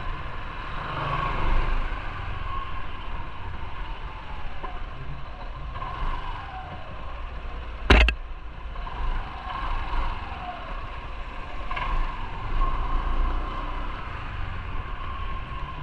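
Motorcycle running on the road, a steady rumble with road and wind noise and pitch rising and falling with the throttle. A single sharp knock about eight seconds in.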